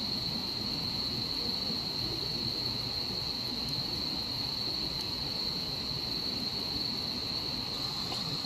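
Night insects making a steady, high, unbroken trill over a low, even rushing background.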